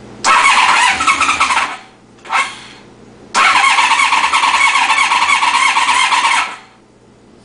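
Honda VFR750F V4 engine cranking on its electric starter without firing: a crank of about a second and a half, a short blip, then a longer crank of about three seconds. It does not catch because the fuel petcock was left off, so no fuel reaches the carburettors.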